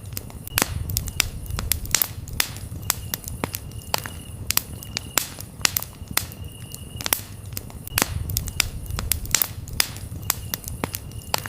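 Campfire crackling with frequent sharp, irregular pops over a low rumble of burning wood. A cricket chirps in short, high, repeated trills.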